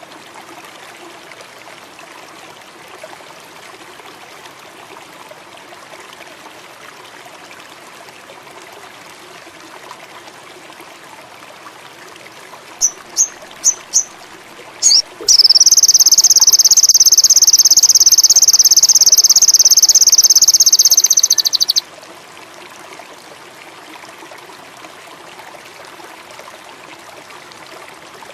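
Songbird giving four short high chirps, then a loud, fast, high trill of about six seconds that stops abruptly. A steady trickling stream with frogs or insects runs underneath.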